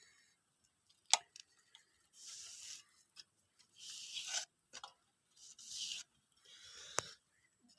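Coconut flesh being rasped on a grater in four short scraping strokes, with a sharp click about a second in and another near the end.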